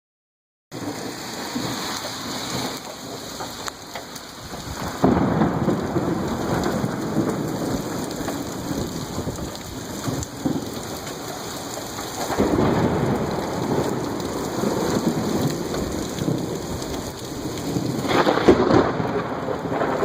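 Thunderstorm: heavy rain falling steadily while thunder rumbles, swelling louder about five seconds in, again around twelve seconds, and near the end.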